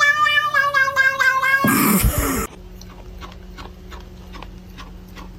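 A cat's long, drawn-out meow that sinks slightly in pitch and ends about two seconds in. A short noisy rustle follows, then faint ticks.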